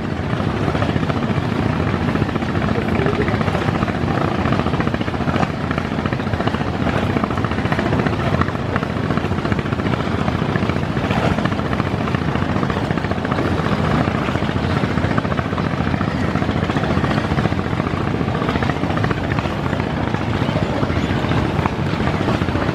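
Passenger river launch running at speed: a steady, dense rush of engine rumble, wind and water with a fluttering, buffeting quality.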